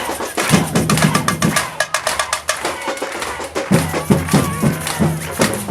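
Batucada drum corps playing: rapid snare-drum and high-drum strokes over deep bass-drum beats. The low drums drop out for about two seconds in the middle and then come back in.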